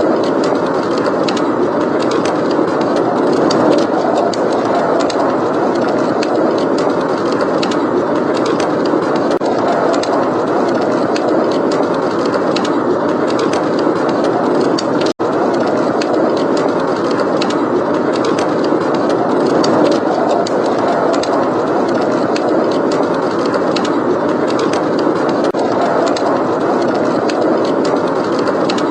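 Heavy blizzard wind rushing steadily, with a fireplace crackling in many small sharp pops throughout. The sound drops out for a split second about 15 seconds in.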